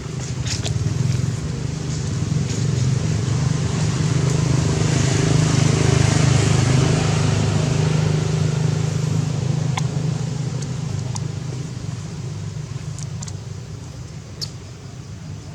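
A steady low engine hum, growing louder over the first several seconds and then slowly fading, with a few faint clicks.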